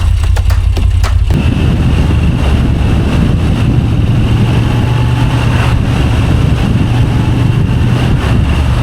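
Moto Guzzi V7 Stone Ten's transverse V-twin engine running steadily; about a second in the sound shifts abruptly to a fuller, busier rumble that holds steady.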